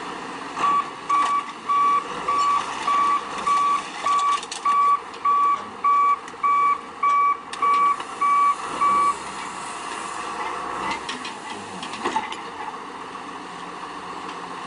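A heavy vehicle's reversing alarm sounding a steady series of about fourteen high beeps, roughly one and a half a second, then stopping about nine seconds in. Steady machine noise continues underneath.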